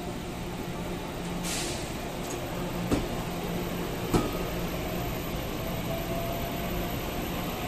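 Steady rumble of a train. A short hiss comes about a second and a half in, two sharp knocks follow near the middle, and a faint rising whine begins in the second half.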